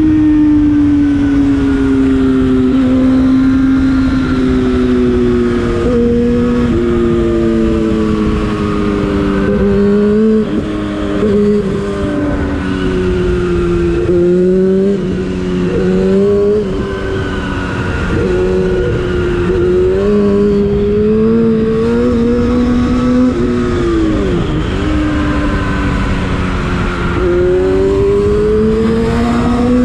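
Yamaha FZ6's inline-four engine through an Akrapovic aftermarket exhaust, ridden on the road: the engine note rises and falls with the throttle, dropping briefly and climbing again several times as gears change, with a sharp dip and recovery near the end. Steady wind noise runs underneath.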